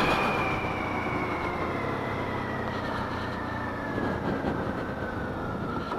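Suzuki DR-Z400's single-cylinder four-stroke engine running as the bike slows, its pitch falling steadily, with road and wind noise.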